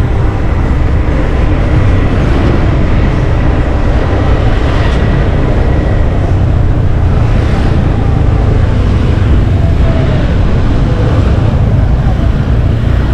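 Motorcycle taxi under way in traffic: the engine running and wind rushing over the microphone as a loud, steady, low rumble.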